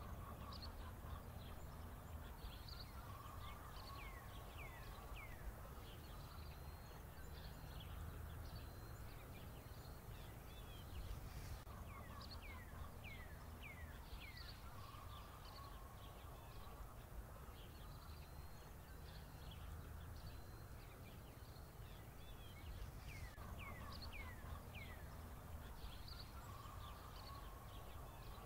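Faint birdsong: quick chirps and sets of three or four rapidly falling whistles, in a pattern that repeats about every ten seconds, over a low steady hum.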